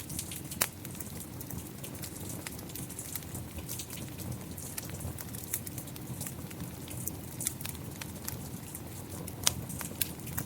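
Steady rain with a wood fire crackling, a scatter of small clicks over an even hiss. A few louder pops come about half a second in and twice near the end.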